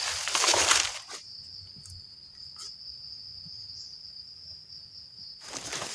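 An insect's steady high-pitched trill, one unbroken tone, heard on its own for about four seconds. It comes between loud rustling noises at the start and near the end.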